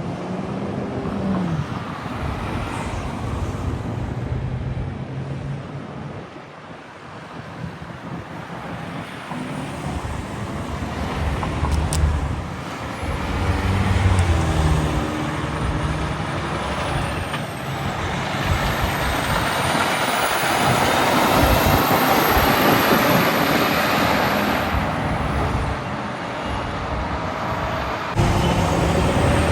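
Road traffic with heavy trucks driving past: diesel engines running and tyre noise, which swells to its loudest as a truck goes by in the second half.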